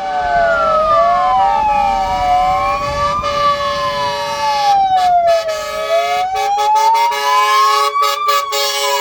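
Fire engine sirens wailing together as a convoy of fire trucks passes: slow rising and falling wails, two of them out of step at first and crossing each other, over a steady held tone.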